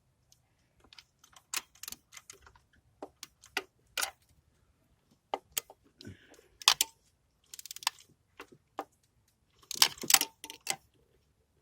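Irregular clicks and taps of hand tools and parts being handled while spark plugs are tightened down in a Toyota Tacoma V6 engine bay. A denser, louder cluster of clicks comes about ten seconds in.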